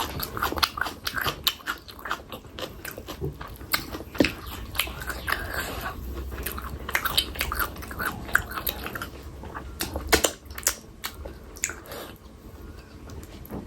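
Close-miked eating: wet chewing and lip smacks of a person eating curry and rice, with many quick clicking mouth sounds.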